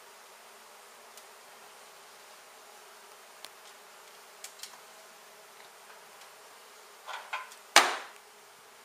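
A honey bee colony buzzing steadily, with a few light clicks and, near the end, a short run of louder knocks ending in one much louder bump.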